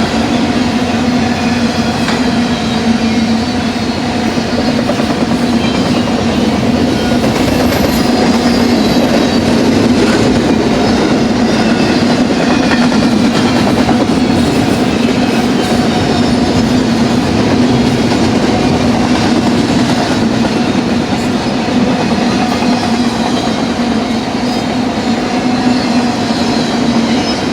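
A BNSF double-stack container train rolling past at speed: a steady rumble of steel wheels on the rails, with a continuous hum.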